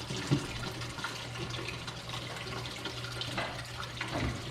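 Steady rushing noise over a constant low hum, with faint voices in the background.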